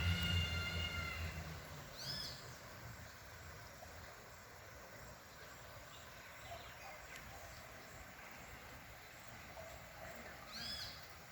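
A passing vehicle's rumble fading away over the first second or so, with a short steady high whine; then quiet outdoor ambience with a few bird calls, two clearer arching chirps about two seconds in and near the end.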